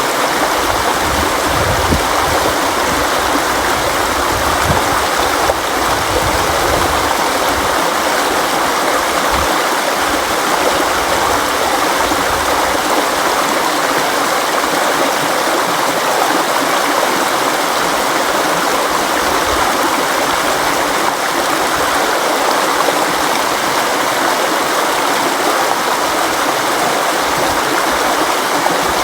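River water flowing and rushing, a steady, even sound with no breaks.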